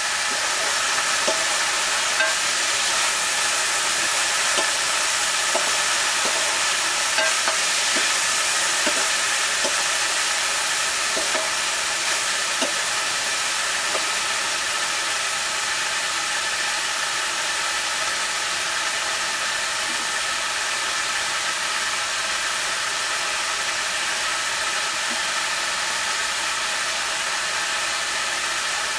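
Food sizzling as it fries in a pan: a steady hiss with occasional faint pops.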